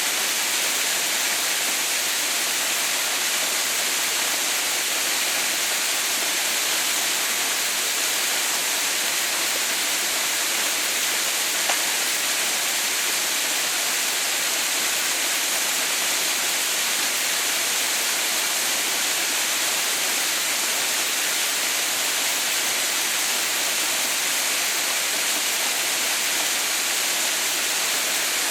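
Steady, unbroken rush of water pouring down the ice-bound Haha no Shirataki (Mother's White Waterfall).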